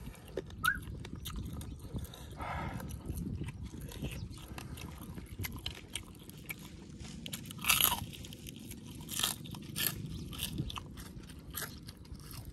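Close-up mouth sounds of a person biting and chewing grilled pig tail: wet smacking and crunching with many short sharp clicks, loudest just under eight seconds in.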